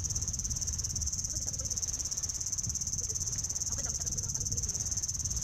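Steady high-pitched insect chirring, a fast even trill that never lets up, over a low rumble, with faint voices now and then.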